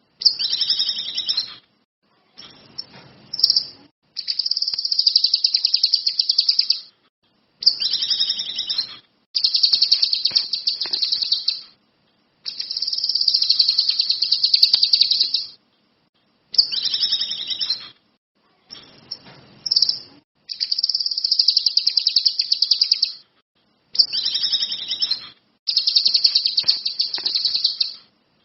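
A kinoi songbird singing in rapid, high-pitched trilled phrases, each one to three seconds long, repeated about a dozen times with short pauses between.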